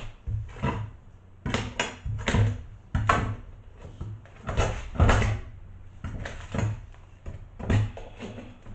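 Pry bar levering and knocking at old bus flooring held down by a screw: a series of irregular knocks, cracks and scrapes of wood and metal, about a dozen in all.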